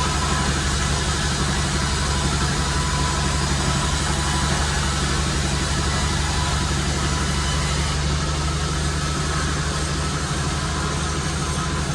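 Sawmill machinery running steadily: a low, even engine drone with a few thin, steady high tones above it.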